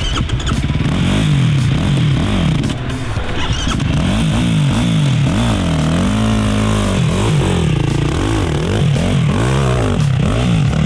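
Race quad's engine running under a rider, revving up and dropping back over and over, its pitch rising and falling about once a second.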